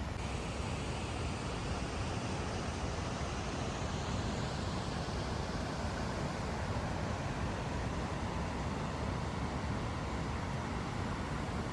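Steady rush of falling water from the Shdugra waterfall: an unbroken, even noise, heaviest in the low end.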